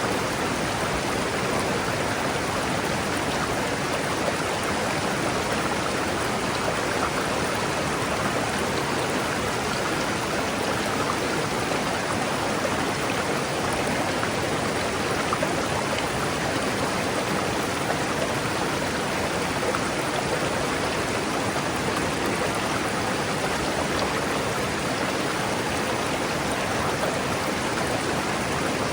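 River water rushing steadily over rocks, an even, continuous rush with no breaks.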